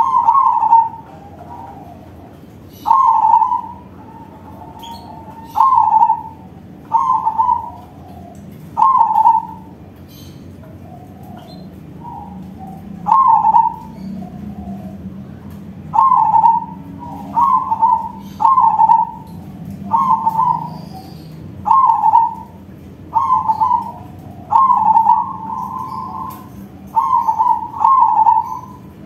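Crossbred zebra dove (perkutut crossing) singing with a big voice: short coo phrases repeated every one to two seconds, some ending in a drawn-out tail.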